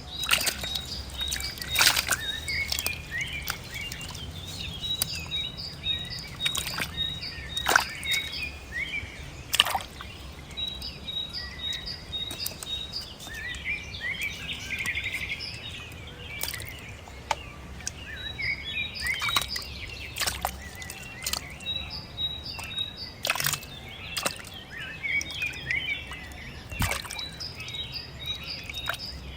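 Small birds chirping and twittering in a busy chorus, with a high note repeated in quick runs of short pips. Sharp clicks or taps sound at irregular moments, about a dozen in all.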